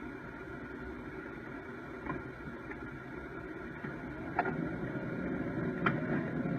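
A car running along a road as picked up by a dashcam: a steady low rumble of engine and road noise, with a few faint clicks, slowly growing louder toward the end.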